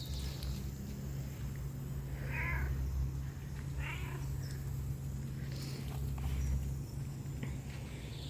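Domestic cat meowing twice, two short calls about a second and a half apart, answering its owner.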